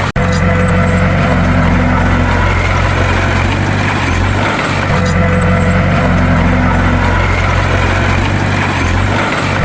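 Bulldozer's diesel engine running steadily, the sound cutting out for an instant just after the start.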